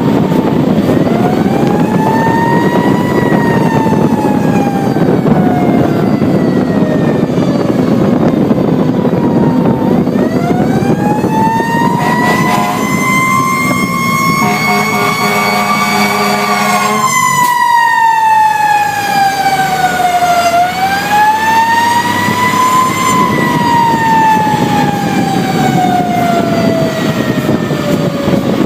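Fire engine siren wailing, its pitch winding slowly up and sliding down again three times, over the rumble of the truck. A steady horn sounds for about five seconds midway and cuts off sharply.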